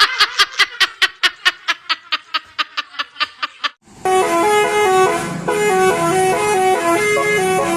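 A rapid run of short beeps, about six a second, dying away. Then, about four seconds in, a bus telolet 'basuri' multi-tone musical horn starts playing a stepped melody of held notes.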